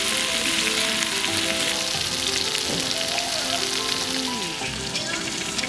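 Food sizzling and frying steadily in a hot pan as it is seasoned and cooked, a continuous crackling hiss.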